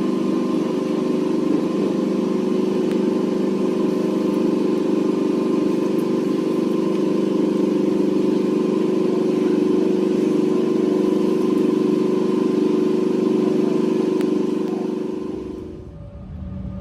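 Electric suburban train's steady hum, several fixed tones holding the same pitch throughout, fading away near the end.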